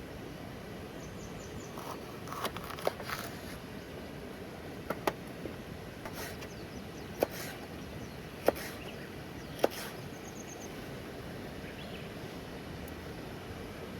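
Steady hiss of rain with scattered sharp pops and clicks, about seven of them in the middle of the stretch, and a few faint high chirps.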